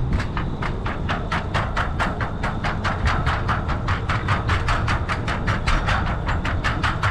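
Bicycle rolling across a bridge deck: a rapid, even clicking about six times a second as the tires run over the deck's joints, over low wind rumble on the microphone.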